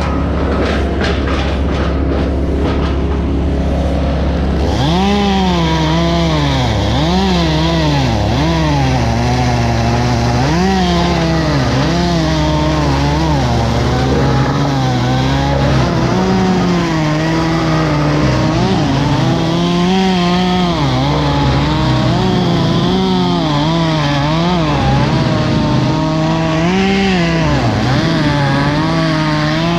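Two-stroke chainsaw running steadily for the first few seconds, then revving up and bogging down again and again as it cuts through wood. A low, steady engine drone runs underneath.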